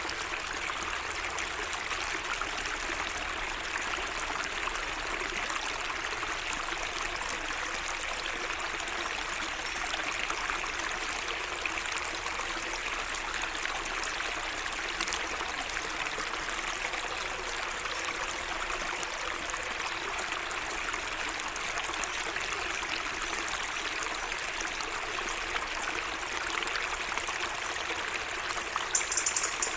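Water in a small garden waterway flowing and trickling steadily. A brief high-pitched sound comes near the end.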